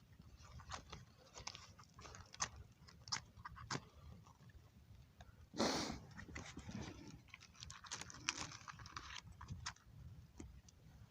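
Small irregular crackles and snaps of dry kindling and paper as a fire is being lit, with one short, louder rush of noise about halfway through.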